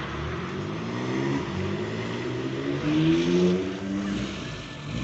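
Car engine accelerating as the car pulls past, its pitch rising steadily, loudest about three seconds in, then fading.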